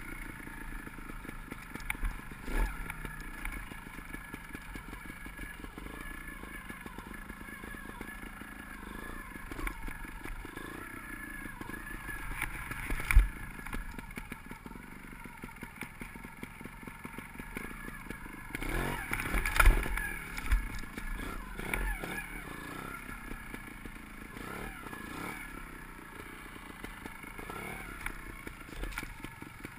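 Sherco 250 cc trials motorcycle engine running at low revs on the throttle, with short blips and a couple of louder revs, one about thirteen seconds in and more around twenty seconds in. Now and then a knock sounds as the bike goes over rock.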